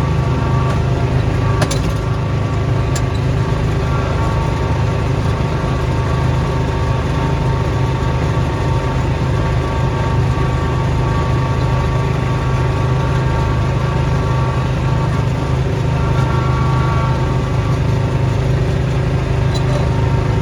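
Snowblower engine running steadily at a constant speed, with a loud, even hum.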